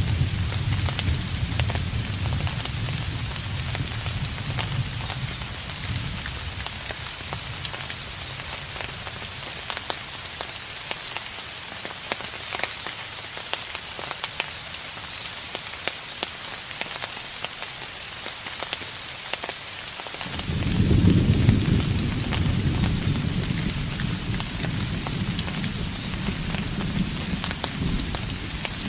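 Steady rain pattering, with distant thunder rumbling low that dies away over the first few seconds. A new roll of thunder starts suddenly about twenty seconds in and rumbles on to the end.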